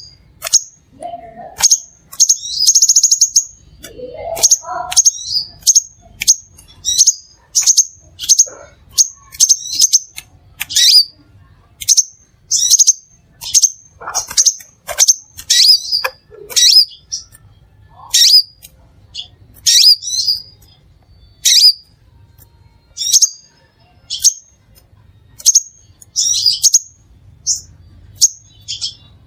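Crimson sunbird (Aethopyga siparaja) calling in a long series of short, sharp, high chirps, about one or two a second. A few lower sliding notes come in early on and around the middle.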